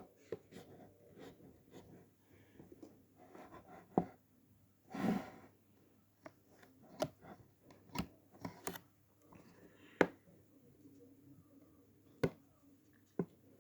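A pen scratching faintly on a cardboard box as a path is traced through a printed maze, with scattered small taps and clicks. A short soft rush of noise comes about five seconds in.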